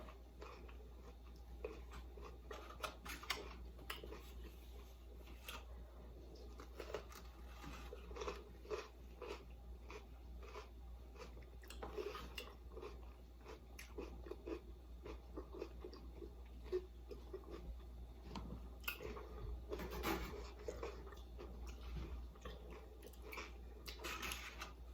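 A person chewing and crunching on a bell pepper stuffed with chili and cream cheese, in small irregular bites and chews.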